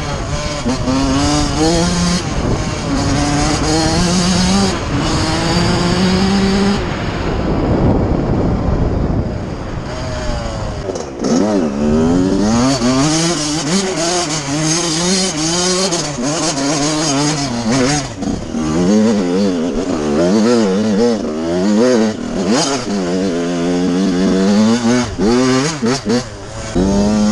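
Suzuki RM85 two-stroke single-cylinder motocross engine under way on a trail, its pitch climbing in steps through the gears. About a third of the way in the engine backs off for a few seconds and wind and tyre noise take over. Then it revs up and down again and again with quick throttle blips.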